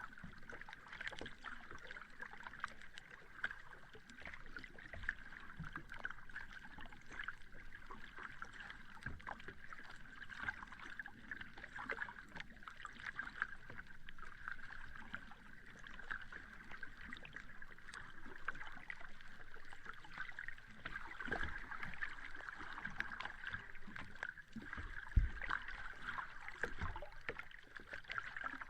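Sea waves washing onto a beach: a steady hiss of surf with fine crackling, and a few low thuds, the strongest about 25 seconds in.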